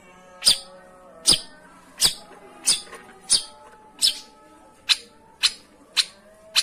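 Long-tailed shrike giving short, scratchy calls, about ten of them at a steady pace of roughly one and a half per second, over faint wavering tones in the background.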